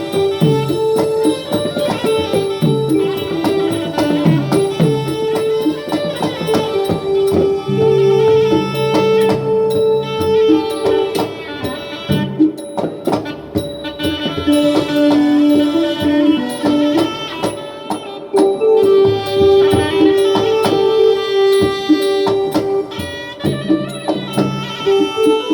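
Southern Thai Manora (nora) ensemble music: a sustained melody line that steps between held notes over rapid drum and small-cymbal percussion.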